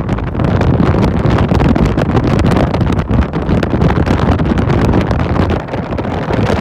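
Wind buffeting the microphone on a moving motorcycle taxi, a steady loud rumble with the ride's road and motor noise underneath.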